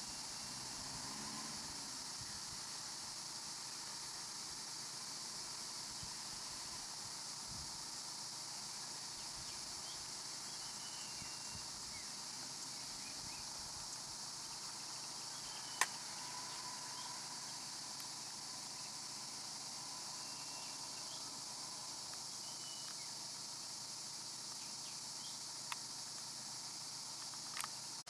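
Steady insect chorus, an even high hiss that holds throughout, with a few sharp clicks, one about halfway and two near the end.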